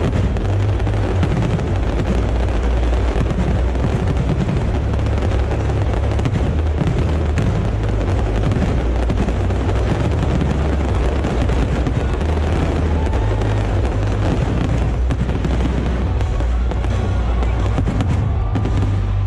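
Stadium fireworks going off continuously: a dense run of pops and bangs with no break, mixed with loud music that has a heavy bass.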